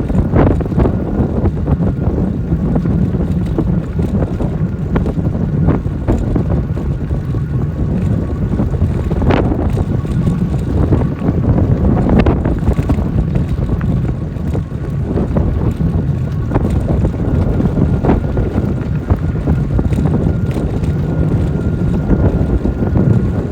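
Wind noise on the microphone from riding an e-bike into a headwind: a steady low rush, with a few short knocks from the bike over the trail.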